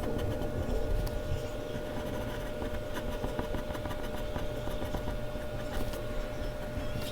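Mechanical pencil scratching on Bristol paper in many short strokes, over a steady background hum.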